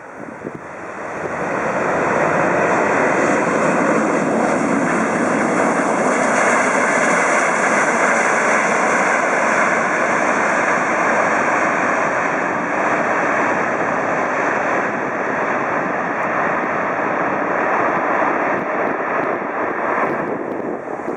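Four CFM56 jet engines of an Airbus A340-300 running as it lands: a loud, steady roar that builds over the first two seconds and eases slightly near the end.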